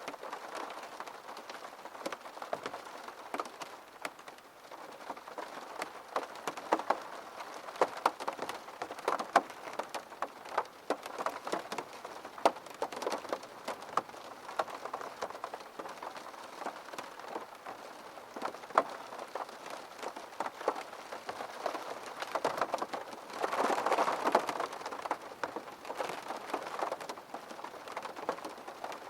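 Rain falling on a window pane, a steady hiss dense with the ticks of individual drops striking the glass, with a brief heavier surge near the end.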